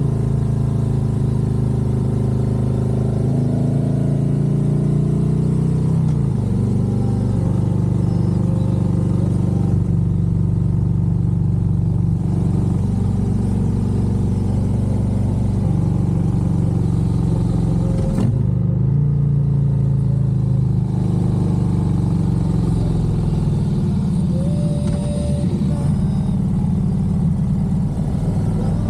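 Harley-Davidson Road Glide's V-twin engine, fitted with a Stealth Stinger air cleaner, running under way on the road. Its pitch steps and glides several times as the rider changes speed and gear, and there is one sharp click about eighteen seconds in.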